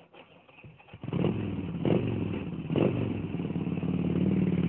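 An engine running, coming in about a second in and building gradually, with two clattering knocks about two and three seconds in.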